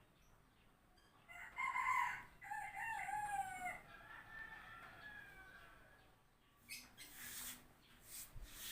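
A bird's call: one long call of several wavering notes, ending in a drawn-out note that falls in pitch and fades. A few short hissing noises follow near the end.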